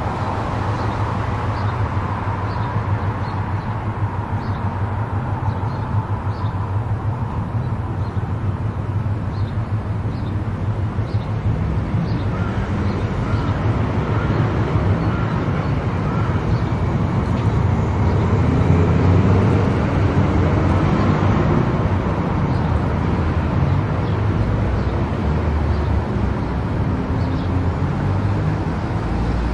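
A car driving on an expressway: steady road and tyre noise with a low engine hum, growing a little louder midway.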